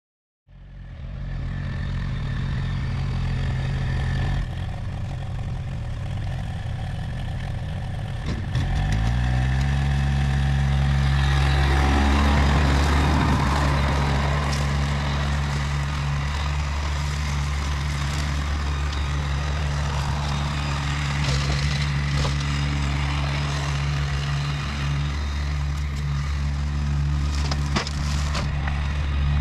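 Massey Ferguson GC1720 compact tractor's diesel engine running steadily. About eight seconds in its pitch rises as it is throttled up, then holds at the higher speed.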